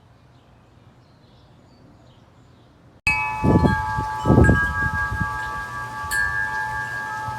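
Faint steady background hiss, then about three seconds in the sound cuts abruptly to a wind chime ringing several overlapping sustained tones, with low rumbles of wind on the microphone.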